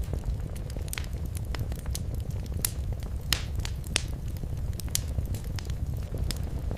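Wood fire burning in a fireplace: a steady low rumble with irregular sharp crackles and pops, a few louder snaps in the middle.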